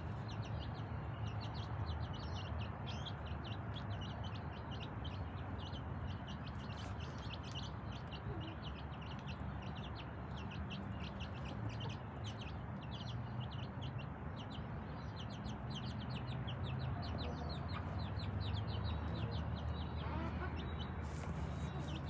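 A brood of chicks peeping continuously, many short high cheeps overlapping at a rapid rate, over a steady low rumble.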